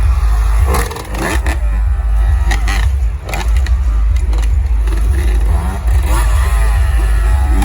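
A motor vehicle engine running and revving over a constant low rumble, with some scraping and clattering.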